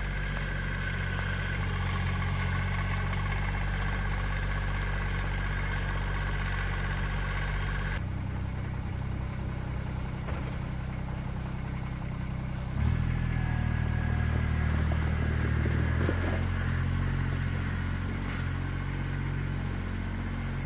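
A vehicle engine running steadily at low speed. It changes character sharply about eight seconds in and runs louder for a few seconds from about thirteen seconds in.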